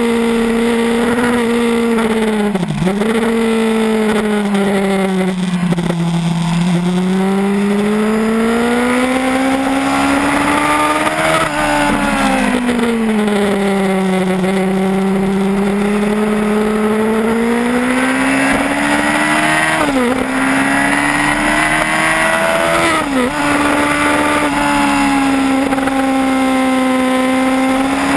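Yamaha R1 sport bike's inline-four engine running hard at speed, its pitch falling and rising in long sweeps through the corners. There are brief sharp dips in pitch about three seconds in and twice near the end.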